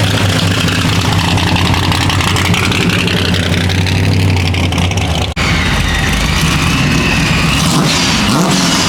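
Car engines idling loudly. First a steady idle with a low rumble; then, after an abrupt cut about five seconds in, a rougher engine sound whose pitch wavers slightly.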